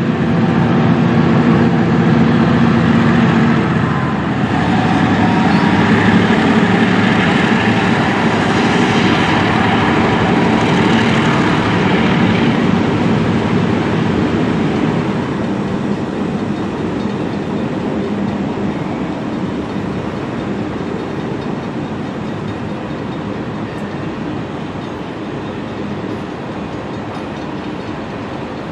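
San Joaquin Valley Railroad mixed freight train rolling past, with a centerbeam flat, boxcars and tank cars going by. It is loudest over the first dozen seconds, with a steady low hum early on, then fades slowly as the cars keep rolling.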